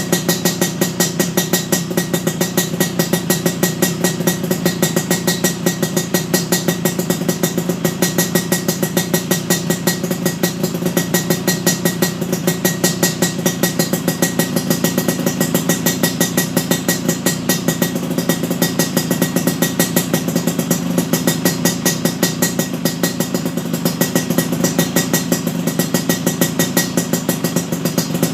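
Yamaha RX-King's two-stroke single-cylinder engine idling steadily through a stainless-steel 'kolong telo' aftermarket exhaust, with an even, fast pulsing beat and no revving.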